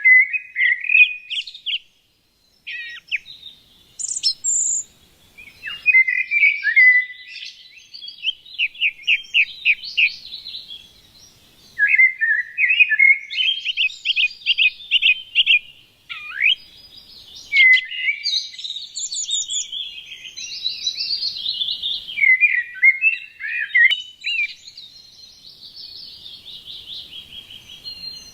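A songbird singing a long, varied song of rapid trills, chirps and whistles, broken by short pauses.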